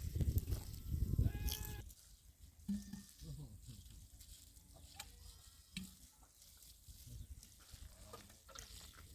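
Livestock bleating a few short times, with a low rumbling noise in the first two seconds.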